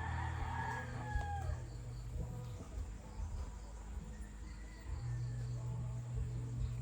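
A rooster crows once in the first second and a half, over a low steady hum that stops partway through and comes back near the end.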